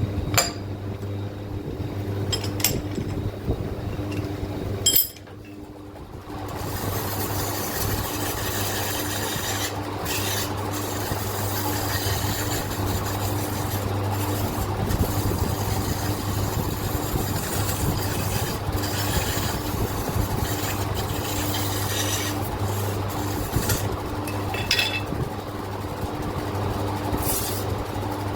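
Sandpaper rubbing against an old engine piston to scour off carbon, a continuous scratchy rasp over a steady low hum. A few sharp clicks come in the first few seconds, and the rubbing runs on steadily after a brief lull about five seconds in.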